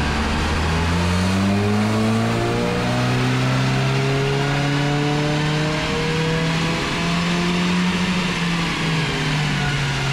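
VW Golf race car's CUAA 2.0 four-cylinder turbo-diesel engine running under load on a rolling-road dyno. The revs climb steadily over the first few seconds, then hold high with small wavers.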